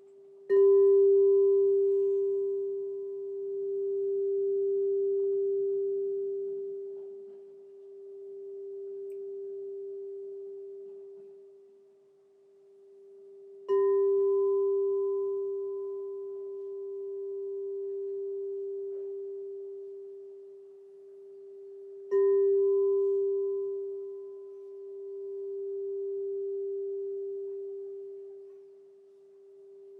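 A crystal singing bowl is struck three times. Each strike rings on as one steady tone with a fainter higher overtone, its loudness swelling and fading in slow waves as it dies away.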